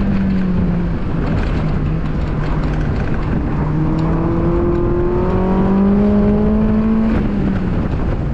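2002 Mazda Miata's 1.8-litre four-cylinder engine working hard on an autocross course. Its pitch dips about the start, climbs slowly through the middle, and falls away sharply about seven seconds in as the throttle comes off.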